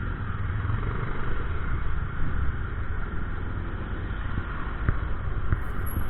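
Motorcycles and traffic: a steady mix of engine and road noise with no single engine standing out.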